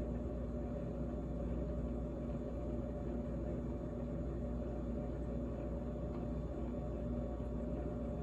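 GE GTH18XCTZRBB refrigerator running in 12-degree cold: a steady hum of the compressor and fans with a few constant tones, unchanging throughout.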